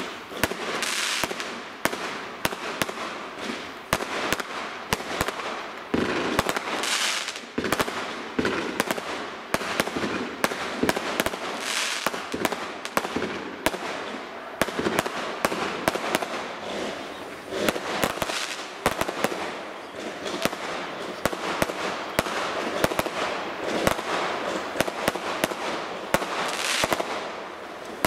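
Fireworks display going off continuously: a rapid run of sharp bangs from bursting aerial shells, often several a second, over a steady hiss.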